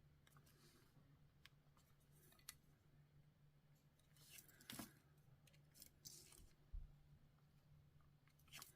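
Near silence: a few faint taps and soft rustles from small paper embellishments being handled and placed on a card, over a steady low hum.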